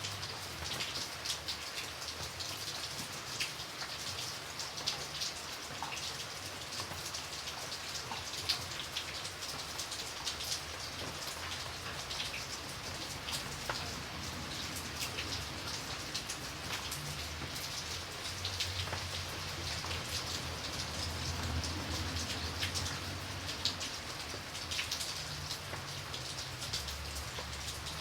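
Steady rain, with many individual drops pattering on a surface and a low rumble underneath that swells and fades.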